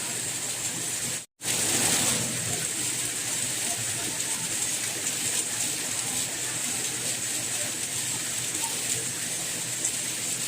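Steady rain, an even hiss strongest in the high range, that cuts out completely for an instant about a second in and comes straight back.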